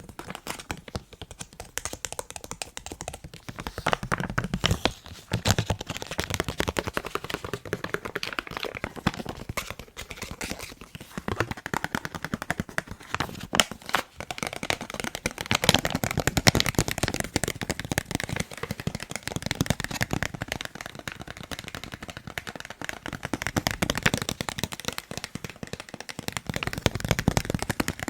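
Fast, continuous tapping on a face mask: a quick, irregular patter of light taps.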